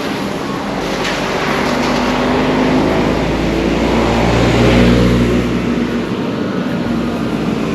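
A bus driving past with its diesel engine running. It grows louder to a peak about five seconds in, then falls away.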